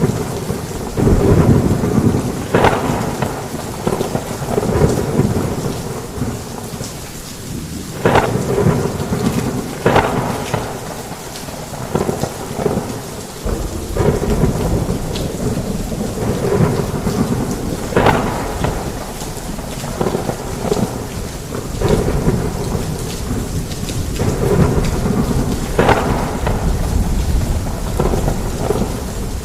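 Heavy rain with rolling thunder: a steady downpour hiss under low rumbles that swell and fade. Several sharp thunder cracks come through, a few seconds apart.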